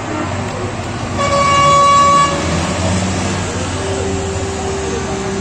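A truck horn blasts once for about a second over the low running of truck engines. A lower steady tone comes in near the end.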